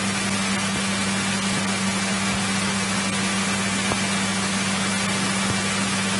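The Continental O-300 six-cylinder engine of a 1963 Cessna 172E running steadily at low taxi power, a constant drone over a steady hiss.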